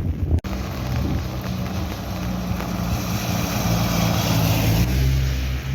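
Steady rushing noise with a low, even motor-like hum underneath.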